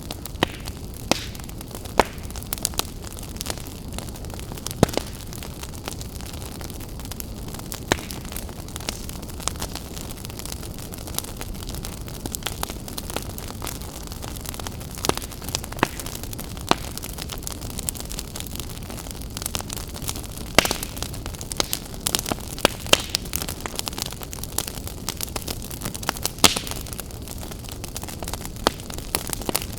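Open wood fire burning, a steady low rumble of flames with frequent irregular crackles and sharp pops, a cluster of louder pops in the second half.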